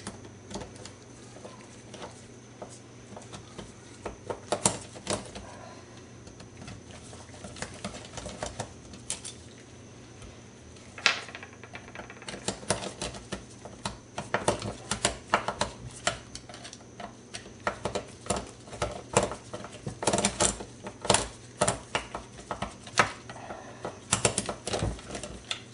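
Small metal clicks and clinks of a screwdriver and loose parts as screws are worked out of a motorcycle carburetor bank, scattered at first and coming in quick runs from about halfway through, over a faint steady hum.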